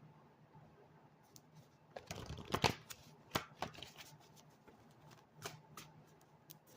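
A deck of cards being shuffled by hand: a dense run of card clicks about two seconds in, then scattered clicks and taps.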